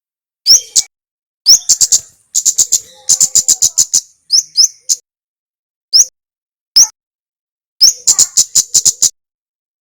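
Male kemade songbird singing high, sharp chirps, several of them quick rising notes, broken by two rapid runs of ticking notes at about seven a second.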